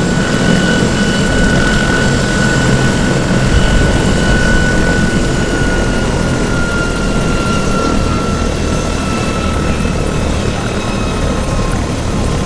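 Bell 412EP twin-turboshaft helicopter running: a loud, steady rotor and engine roar with a high turbine whine that slowly falls in pitch.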